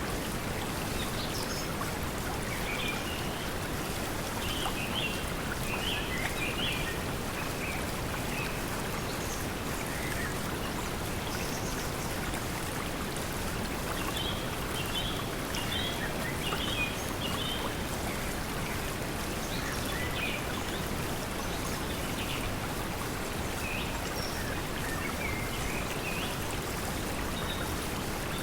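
Steady pink noise mixed with running water, with birds chirping in short bursts over it every several seconds.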